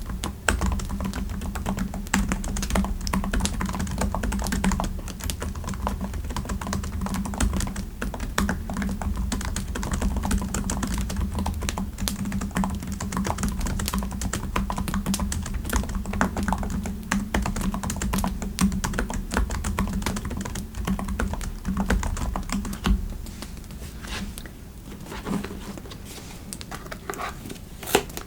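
Typing on a computer keyboard: a fast, continuous run of key clicks that thins out and gets quieter over the last few seconds.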